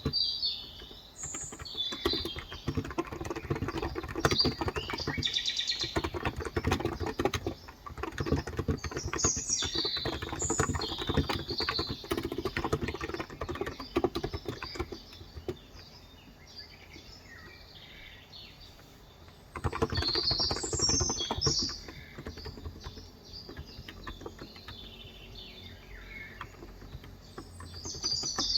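Fast typing on a COX Endeavor electrostatic-capacitive (Topre-style) tenkeyless keyboard with 35 g keys: steady runs of soft key clicks that pause briefly past the middle and then pick up again. Birds chirp repeatedly over the typing.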